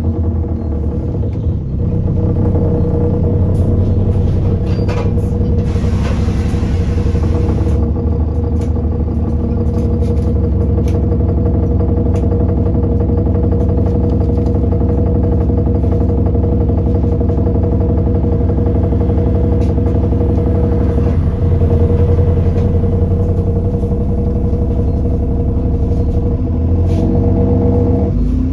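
Alexander Dennis Enviro400 bus engine running steadily, with scattered sharp knocks and rattles over it. A hiss comes about six seconds in and lasts a couple of seconds, and the engine note changes near the end.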